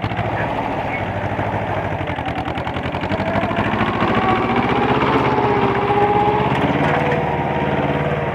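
Mahindra Jivo 245 DI 4x4 mini tractor's two-cylinder diesel engine running steadily, growing louder about three seconds in.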